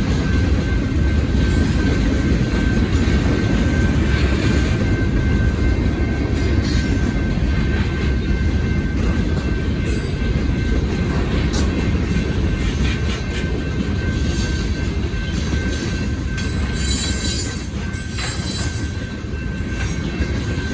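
Freight train cars rolling past a grade crossing: a steady heavy rumble of wheels on the rails, with scattered high wheel squeal late on. A steady high tone runs through it, fitting the crossing's warning bell ringing.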